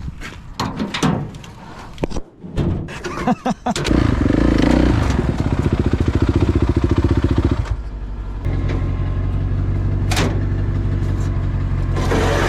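Dirt bike engine catching about four seconds in after a few scattered knocks and clicks, running with a fast even pulse, dipping briefly, then settling into a steady idle.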